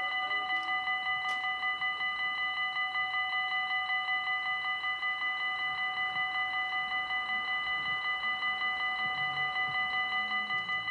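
Level crossing warning bell ringing in fast, even strokes, about five a second, without a break.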